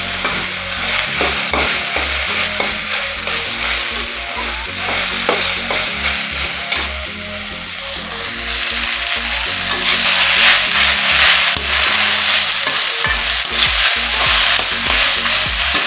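Sliced okra sizzling in hot oil in a pan while a spatula stirs it, with many small scrapes and taps of the spatula against the pan. The sizzle eases a little around the middle, then grows louder again.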